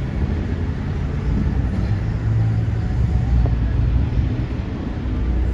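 Motorcycle engine running while riding, heard as a steady low rumble mixed with road and wind noise.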